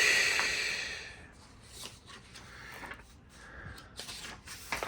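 A page of a large hardcover book being turned: a papery swish right at the start that fades over about a second, followed by faint paper rustling and a short tap near the end.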